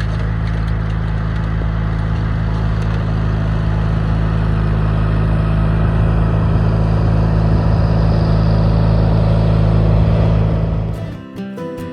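John Deere 420 garden tractor's air-cooled two-cylinder engine running steadily at a constant speed, cut off about eleven seconds in by acoustic guitar music.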